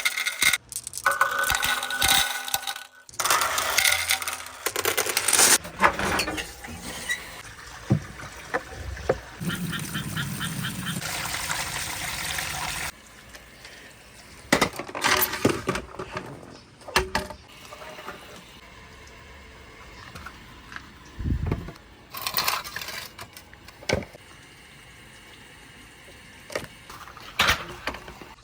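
Marbles clattering and rolling down a wooden marble run. A dense rattle of clicks comes first, then an even rolling rush for several seconds, then scattered clicks and knocks.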